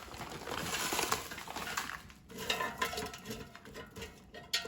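Frozen breaded green beans being tipped into and shuffled around a metal air fryer basket: a run of irregular small clicks and rattles, with a sharper click near the end.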